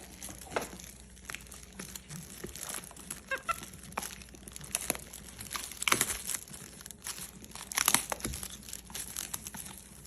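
Packaging being crinkled, rustled and torn as a gift box is unpacked, with irregular crackles and two louder rips or crunches about six and eight seconds in.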